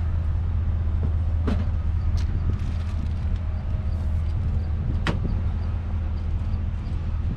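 A steady low engine-like rumble with a few sharp knocks, one about a second and a half in, another just after two seconds and a louder one about five seconds in.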